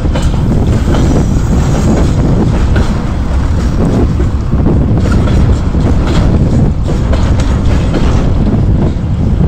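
Freight train of covered hopper wagons rolling past close by: a loud, steady rumble of steel wheels on the rails with a few knocks, and wind buffeting the microphone.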